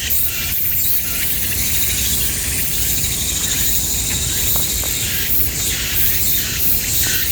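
A loud insect chorus: a dense, steady shrill with a pulsing texture, over a low rumble.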